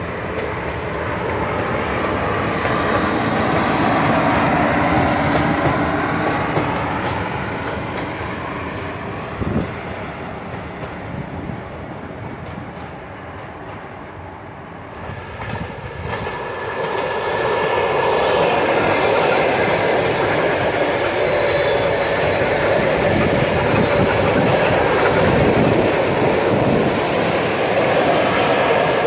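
Trains passing on an electrified line: first a locomotive running by, its sound swelling and fading away. Then an electric commuter train approaches and passes close by, with wheels clattering over the rail joints.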